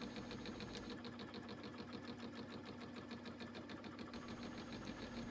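Milling machine with a boring head taking light interrupted cuts on a crankshaft counterweight: a steady motor hum with a rapid, even ticking each time the cutter strikes the part.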